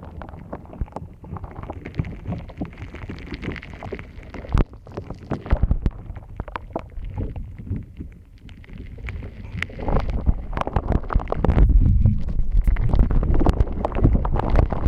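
Hands kneading and squeezing a gritty, granular shaved-ice slime close to a binaural microphone: many small irregular crackles and pops. The handling gets louder and deeper from about ten seconds in.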